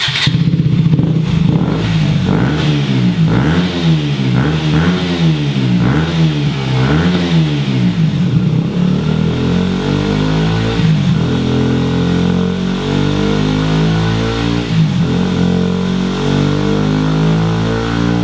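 KTM Duke 125's single-cylinder four-stroke engine revved up and down about seven times in quick succession. It then runs on with its pitch rising and falling more slowly.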